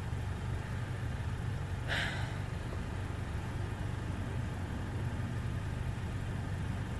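Car engine idling, heard from inside the cabin as a steady low hum, with a brief hiss about two seconds in.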